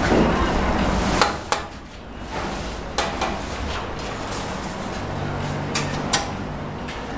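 Sharp knocks and taps from a steel bricklaying trowel striking cement bricks and mortar, about seven irregular hits spaced roughly a second apart.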